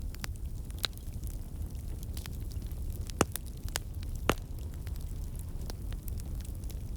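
Wood fire crackling in a fireplace: a steady low rumble of the flames with irregular sharp pops and snaps, two louder pops a little past the middle.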